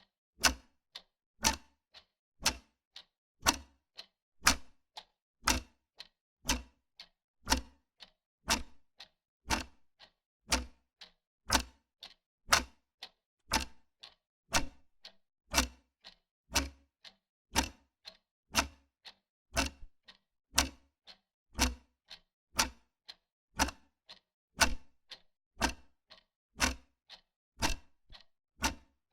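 Wall clock ticking steadily, about one loud tick a second with a softer tick between each.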